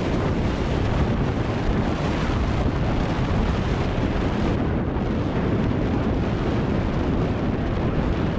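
Wind buffeting the microphone: a steady, rumbling rush of noise with no distinct events.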